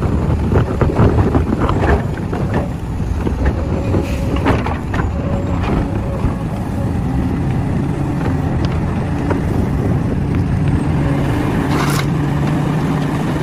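Heavy earthmoving machinery running with a steady low engine sound, with irregular clattering knocks in the first few seconds. The engine note grows steadier and stronger in the second half, and a short sharp sound comes near the end.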